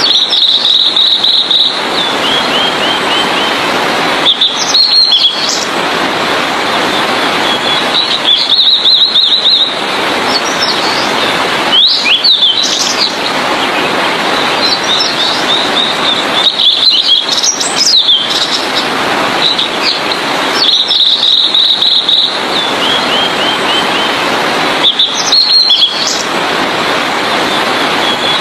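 Blue-and-white flycatcher singing: short high phrases of rapid trilled notes and brief whistled glides, repeated about every four seconds, over a steady loud hiss.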